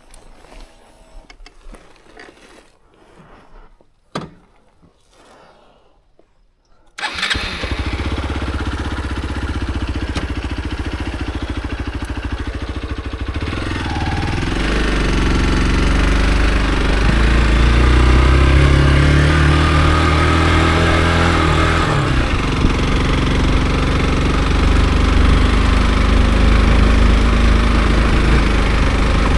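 Hero XPulse 200 4V's single-cylinder engine. After a few faint clicks it is started abruptly about seven seconds in and runs steadily, then from about fourteen seconds in it revs up and down as the motorcycle pulls away.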